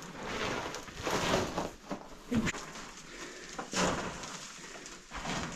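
Footsteps scuffing and crunching on loose rock and gravel, irregular, with a few sharper scrapes.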